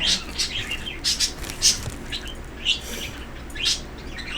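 Pet birds chirping: a run of short, high chirps at irregular intervals.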